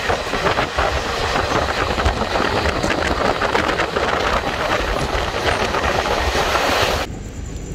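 Passenger train running at speed, its wheels clattering over the rail joints with a dense rattle. Near the end the sound cuts off abruptly to a quieter, steady low rumble.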